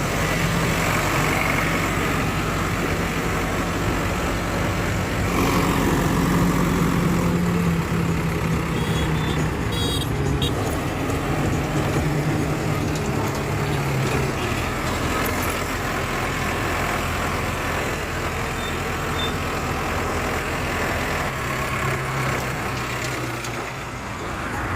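Heavy diesel engine running steadily under load, its pitch rising about five seconds in and easing off later, with a few brief knocks partway through.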